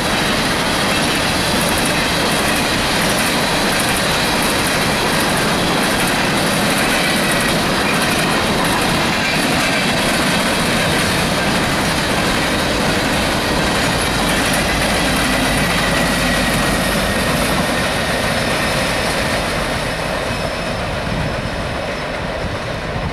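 Empty steel coal hopper cars rolling past at speed: a steady rumble of wheels on rail with clickety-clack and thin, faint wheel squeal at times, easing slightly near the end.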